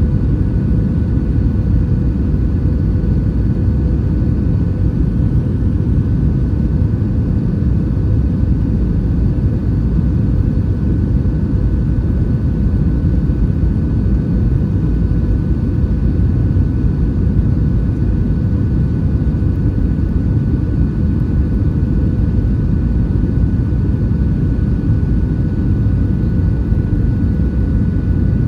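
Steady cabin noise inside an Airbus A320-232 in flight: a low, even roar of its IAE V2500 engines and the airflow, with faint steady whining tones above it.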